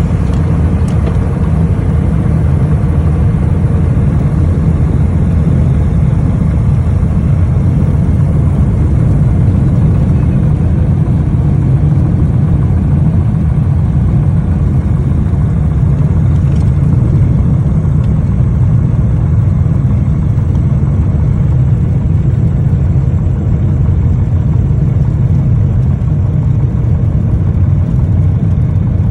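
Small plane's engine droning steadily and loudly in flight, an unbroken low rumble.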